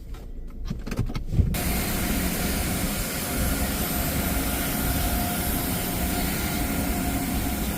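Car wash's free vacuum station switching on with a knock about a second and a half in, then running with a steady rush of suction.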